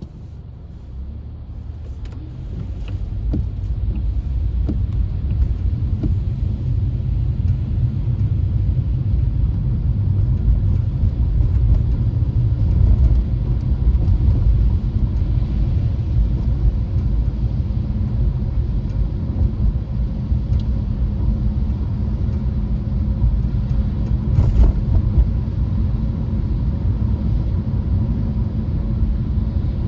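Car driving, a steady low rumble of road and engine noise that builds over the first few seconds and then holds.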